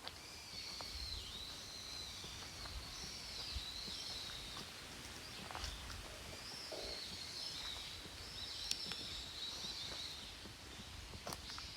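Birds singing in a continuous chorus: high warbling phrases that repeat again and again, over a faint low rumble and a few light ticks.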